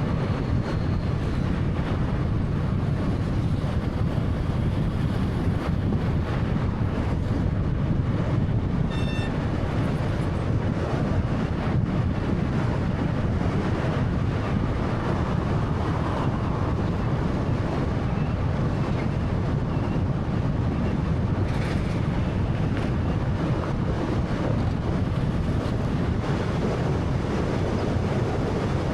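Steady road noise from a 2013 Honda Fit 1.3-litre hatchback on the move: an even rumble of tyres, wind and engine, heaviest in the low end. A brief high-pitched tone sounds about nine seconds in.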